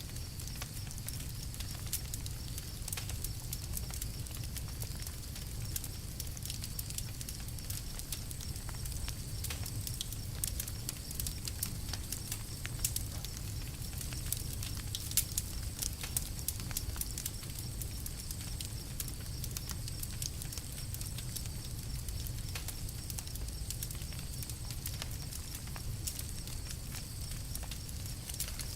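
Campfire crackling, with many small sharp pops that come thickest in the middle, over a steady low rumble.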